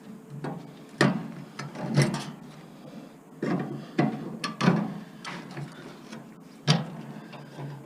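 Irregular knocks and clatter, about eight sharp hits spaced unevenly, from the panels and parts of a scrapped household appliance being handled and pulled apart by hand.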